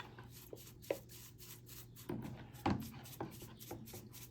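Light knocks, clicks and rubbing as a grimy small-engine carburetor is scrubbed and handled in a plastic tub of stale gasoline, over a faint steady low hum.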